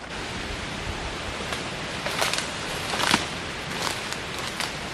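Strong wind rushing steadily through the forest, with a few sharp crackles of leaves and twigs.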